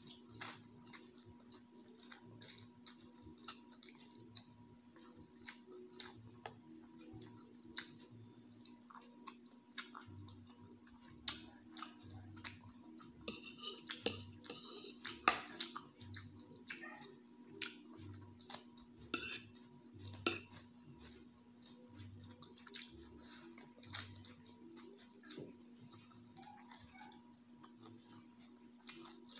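Close-up eating sounds: a metal fork clicking and scraping against the plate, with slurping and chewing of pancit canton noodles. A faint steady low hum sits underneath.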